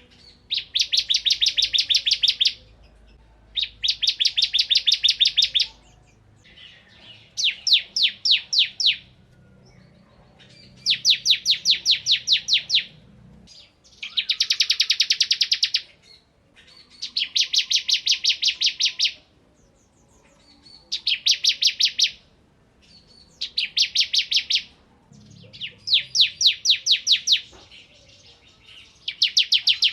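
Bar-winged prinia (ciblek kristal) singing its fast 'bren' song: about ten bursts of rapid, high chattering notes, each a second or two long, with short pauses between.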